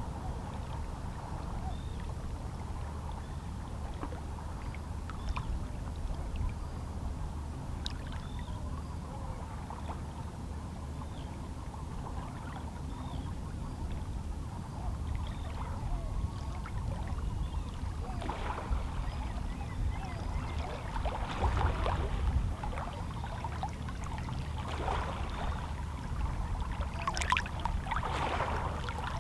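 Calm sea waves lapping against shoreline rocks over a steady low wash, with several louder splashes in the second half.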